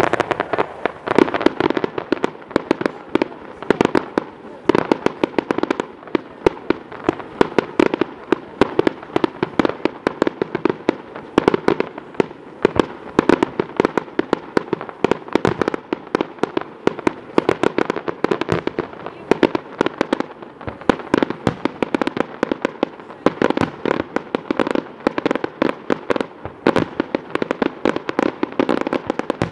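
Fireworks display going off in a rapid, continuous barrage: many sharp bangs and crackling reports every second, without a break.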